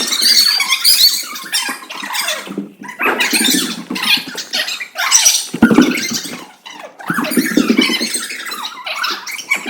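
A group of children shouting and squealing excitedly, their high-pitched voices overlapping in clumps with short lulls between.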